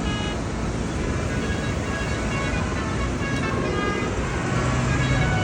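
Tractors driving past with their engines running; an engine hum strengthens near the end.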